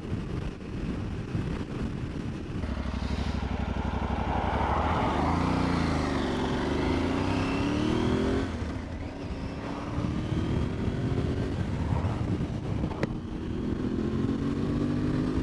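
Aprilia Tuareg 660's parallel-twin engine pulling under acceleration, its pitch climbing through each gear and dropping at the shifts, several times over.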